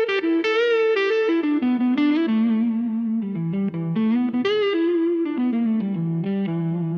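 Blues electric guitar solo: a single-note line played with light distortion. It steps down in pitch over the first few seconds and settles into lower notes, with vibrato on some held notes.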